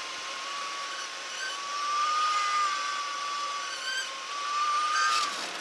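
Cessna 172 Skyhawk stall warning horn sounding through the landing flare and touchdown: one sustained whistle-like tone that wavers and rises slightly in pitch, then cuts off shortly before the end.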